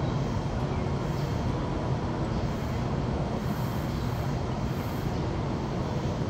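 Taiwan High Speed Rail 700T train at a station platform, a steady low rumble and hiss with no sudden sounds.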